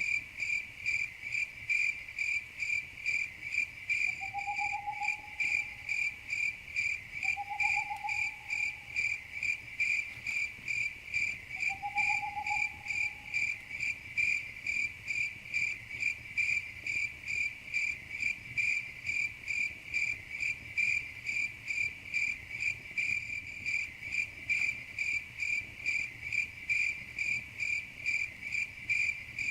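Crickets chirping in a steady, even rhythm of about two high chirps a second. Three short whistled calls come a few seconds in, at about 4, 7 and 12 seconds.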